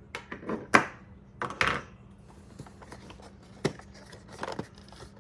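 Toy packaging being handled as the box is opened: a string of short clicks and knocks with brief scrapes of cardboard and plastic, the sharpest about three-quarters of a second in.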